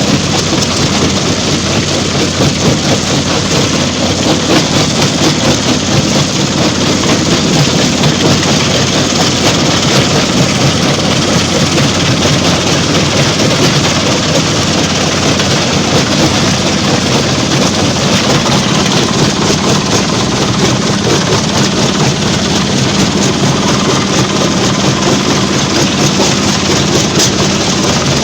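Stone crusher plant machinery running steadily: a loud, continuous, dense clatter over a low engine hum.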